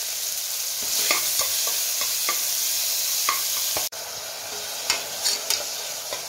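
Chopped onions, and after a brief cut onions with tomatoes, sizzling in hot oil in an aluminium pressure cooker. A steel slotted spatula stirs them, scraping and tapping against the pot every fraction of a second.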